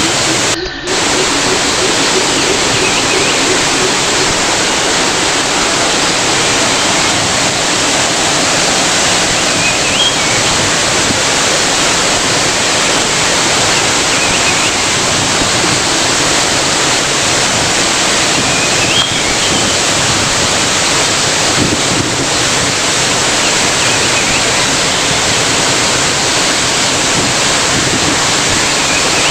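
Waterfall: a loud, steady rush of falling water, with one momentary break in the sound just under a second in.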